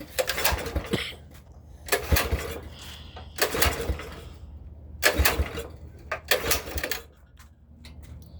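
Pressure washer's small gas engine being pull-started on choke: the recoil starter rope is yanked about five times, roughly a second and a half apart, and the engine turns over without catching.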